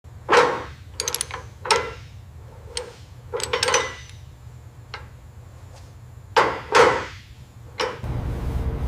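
A dozen or so irregular hammer knocks and taps. The loudest is near the start, and two more loud ones come close together about six and a half seconds in.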